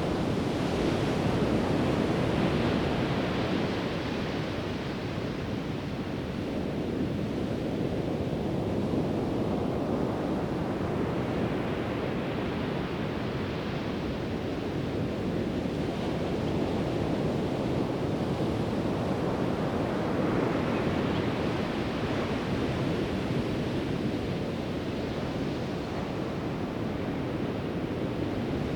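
Pacific Ocean surf breaking on a sandy beach, a steady wash that swells as each wave breaks, about every nine or ten seconds.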